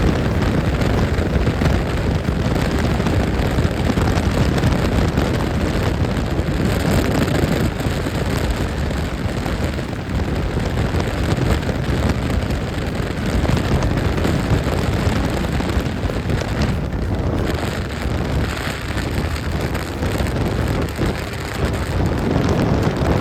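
Steady rushing noise with no distinct events, strongest in the low end.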